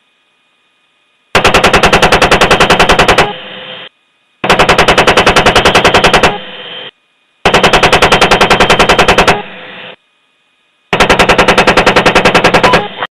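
Apache helicopter's 30 mm chain gun firing four bursts of rapid, evenly spaced rounds, each burst about two seconds long with short pauses between.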